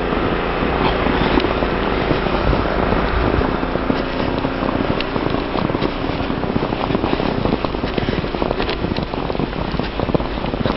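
Footsteps crunching and crackling in deep snow, irregular, over a steady low rumble on the camera microphone.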